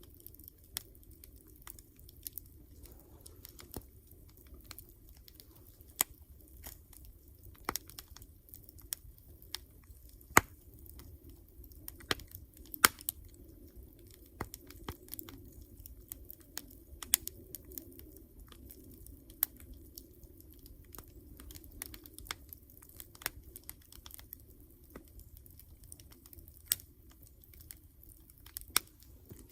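Wood campfire crackling, with irregular sharp pops, some much louder than the rest, over a low steady rumble.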